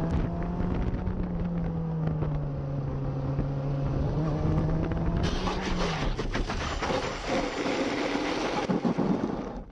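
Motorcycle engine running at a steady pitch, which steps down a little about two and a half seconds in and falls away about six seconds in. Over the second half a loud rushing noise with many knocks and rattles takes over, then everything cuts off abruptly at the end.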